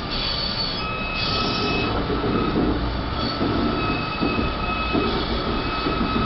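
Vitória–Minas Railway passenger train running, heard from inside a coach: a steady rumble of wheels on the rails, with high wheel squeal coming and going as the train rounds a curve.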